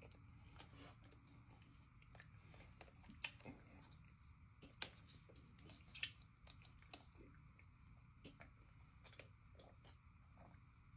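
Faint chewing: a person eating, with soft, irregular mouth clicks and smacks, a few of them louder.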